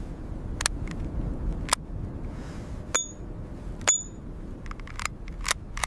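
A low steady rumble with scattered sharp clicks over it, two of them, about three and four seconds in, ringing briefly like small metal pings.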